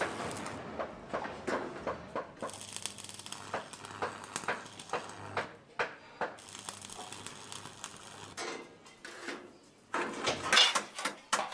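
Irregular metallic clinks and knocks, as of metal parts and tools being handled, over a low steady hum that stops near the end, when a louder cluster of knocks comes.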